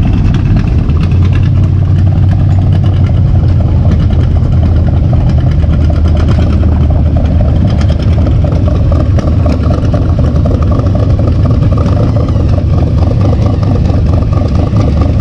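Vehicle engine running steadily with a loud, low rumble.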